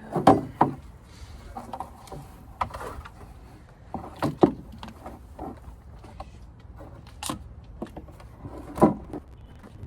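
Irregular knocks and clunks of hands and tools working on the generator, about seven over the stretch, over a low rumble.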